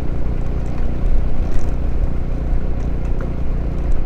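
Motorcycle engine running steadily as the bike is ridden, a continuous low drone with no break.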